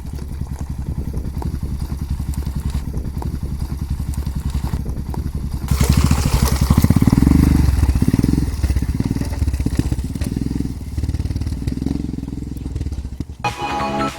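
Royal Enfield Himalayan's single-cylinder engine running on the move, a fast steady exhaust pulse with its note rising and falling. About six seconds in, a loud rush of wind noise comes up over it, and music starts near the end.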